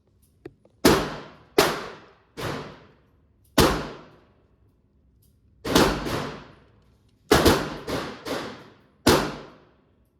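Pistol firing about ten shots at an uneven pace, several in quick succession, each shot trailing off in a short echo.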